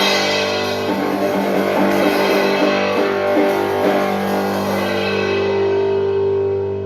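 Rock duo's electric guitar and drums hitting a closing chord that rings out, its held notes slowly dying away and fading near the end.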